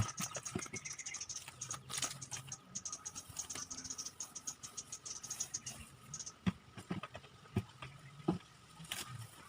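Scratching strokes and scattered light taps and clicks from painting a wall by hand.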